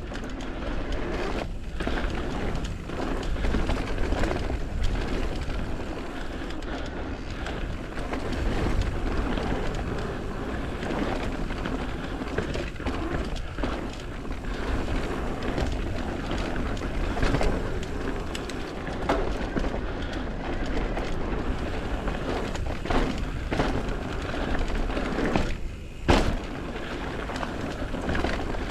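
Mountain bike riding down a rough dirt trail: tyres rolling over dirt and rocks, with the chain and frame rattling in many short knocks over bumps and a constant wind rumble on the microphone. A brief lull comes just before one sharp knock near the end.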